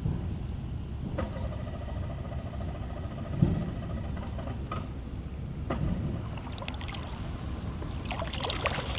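Water sloshing around a kayak hull as a pike is released, with a steady high insect trill behind it. A few dull knocks, the loudest about three and a half seconds in, and light splashing near the end.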